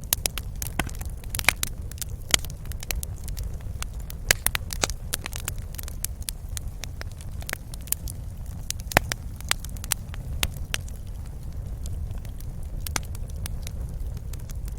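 Wood fire crackling in a fireplace: irregular sharp pops and snaps, thicker in the first few seconds and sparser later, over a steady low rumble of the burning.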